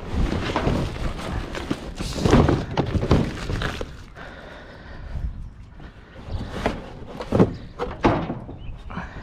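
Repeated knocks, thunks and clatter of scrap items being moved and dropped while rummaging in a dumpster, busiest in the first few seconds and again near the end.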